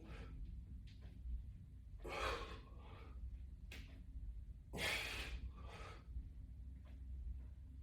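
A man breathing hard as he does push-ups: a few sharp, noisy breaths a second or two apart.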